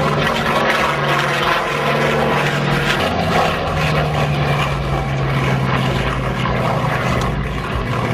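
Douglas A-1 Skyraider's big radial piston engine and propeller running as the plane flies past, its engine tone easing slightly lower partway through.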